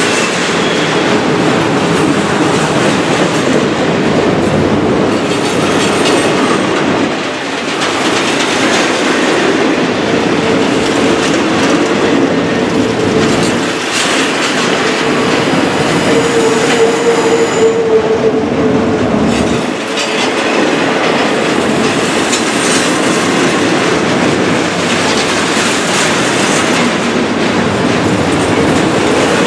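Double-stack intermodal freight train of well cars rolling past close by, its wheels clattering steadily over the rails. A steady squeal rises out of the rumble through the middle stretch, and the sound eases briefly a few times as the cars go by.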